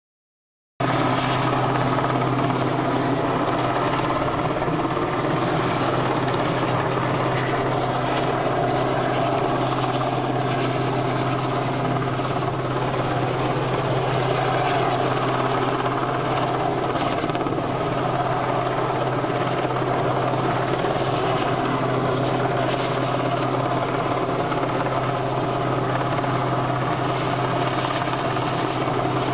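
RAF search-and-rescue helicopter's rotors and engines running steadily and loudly. The sound cuts in abruptly just under a second in, with a steady low drone under a broad rushing noise.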